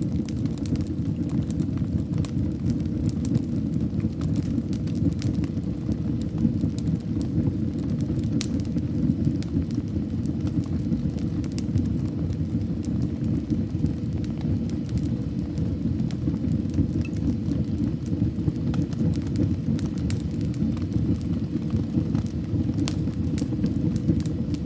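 Wood fire burning in a fireplace: a steady low rumble of flames with frequent small sharp crackles and pops scattered throughout.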